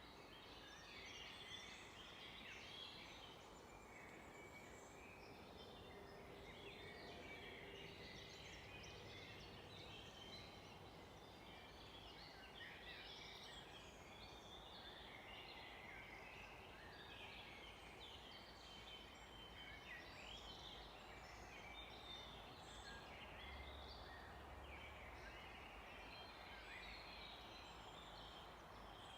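Faint chorus of many small songbirds: dense, overlapping high chirps and trills throughout, over a low, steady background hiss.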